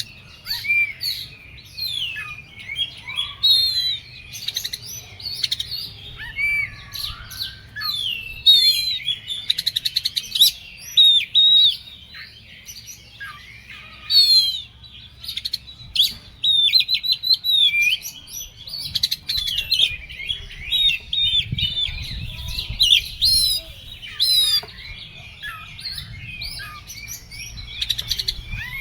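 An oriental magpie-robin (kacer) singing continuously: a fast, varied stream of chirps, slurred whistles and rapid trills with hardly a pause. The bird is in the fired-up, aggressive singing state that bird keepers call 'emosi'.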